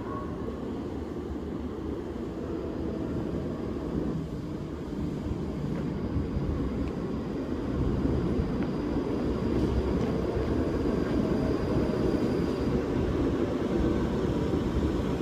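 Low, steady rumble of a train in the underground station, growing louder about halfway through, with a faint high whine over it for a while.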